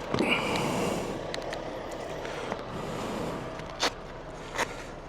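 Motorcycle on the move: steady engine and wind noise, with two sharp clicks near the end.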